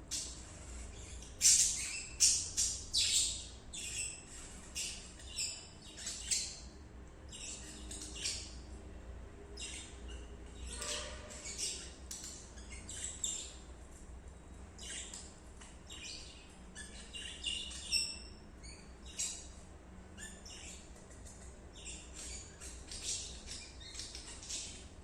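Budgerigar chirping: many short, high calls in quick runs, loudest and densest in the first few seconds, then going on more sparsely.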